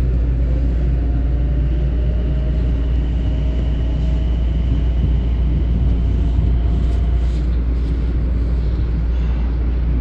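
A Long Island Rail Road train running past, a steady low rumble with a faint whine that rises a little in pitch and fades out about seven seconds in.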